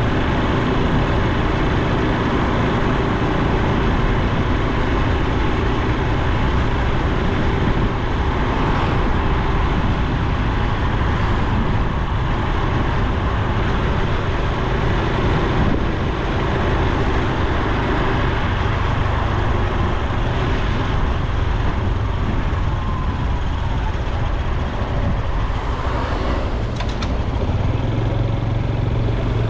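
Honda Super Cub C125's single-cylinder four-stroke engine running under way, with wind and road noise.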